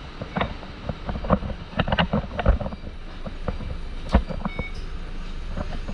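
Low vehicle rumble with frequent rattles and knocks, and a few short high beeps about four and a half seconds in.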